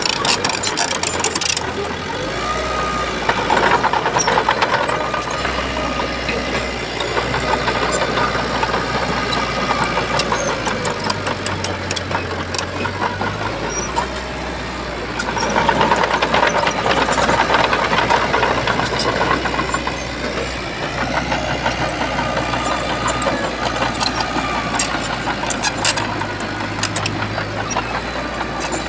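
Shantui bulldozer's diesel engine working steadily, growing louder twice as it comes under load, with sharp metallic clanks scattered through.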